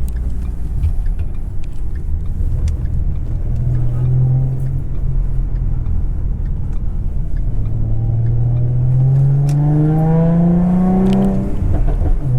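2011 Ford Mustang's 3.7-litre V6 engine pulling the car under acceleration, its pitch rising steadily for a few seconds and then dropping suddenly near the end, as at an upshift, over a steady low road rumble.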